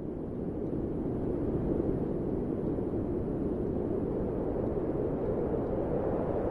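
Wind blowing steadily: a low, even rush with gentle swells in strength.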